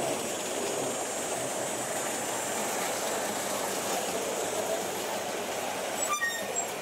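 Vintage Ford Model A's four-cylinder engine running as the car drives slowly out of a wooden covered bridge, a steady even noise. A few short high chirps near the end.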